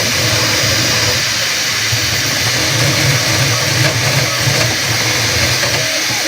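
Bambu Lab P1P 3D printer running at its fastest 'ludicrous' speed setting: a loud, steady whir with a pulsing low hum from the rapidly moving print head, vibrating hard enough to shake the room. Short whining tones come in near the end.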